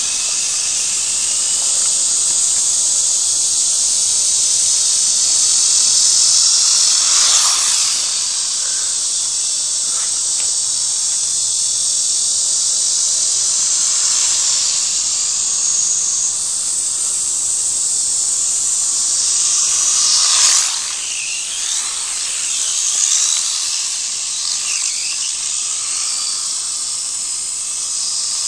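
Losi Micro Desert Truck's small electric motor and gears whining at a high pitch, rising and falling as the throttle changes, with brief swells about a quarter of the way in and again about two-thirds of the way in.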